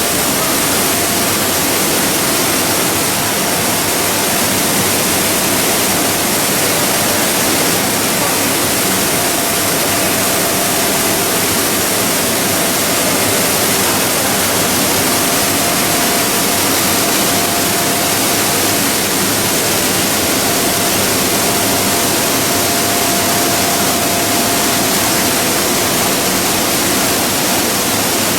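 Machinery of a PE and calcium carbonate pelletizing line running: a loud, steady wash of noise with a faint constant whine through it.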